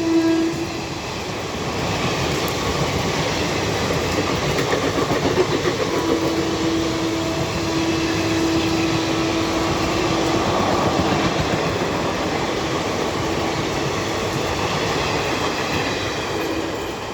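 Indian Railways express train running past at speed, its wheels clattering over the rail joints in a steady rumble. A horn note carried over from just before cuts off about half a second in.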